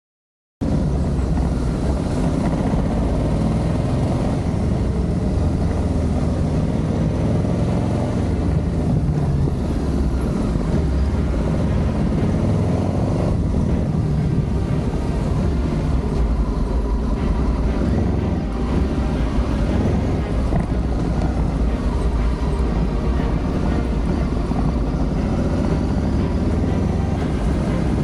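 Adventure motorcycle engine running steadily on the move. It cuts in suddenly about half a second in.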